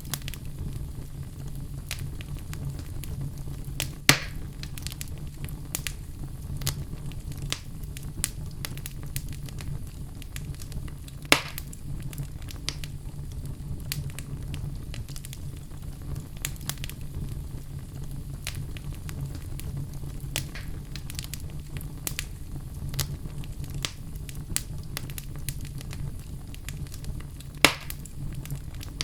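Fireplace fire crackling steadily over a low rumble, with frequent small crackles. Three loud sharp pops stand out: a few seconds in, a little before halfway, and near the end.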